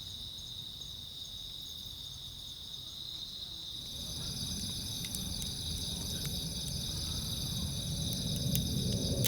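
Insects, crickets by their sound, chirping in steady high trills. A low rushing noise builds from about four seconds in, with a few faint ticks.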